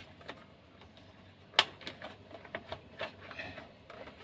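Small clicks and taps of a refrigerator's defrost timer and its screw being handled and pushed into place, with one sharp click about one and a half seconds in.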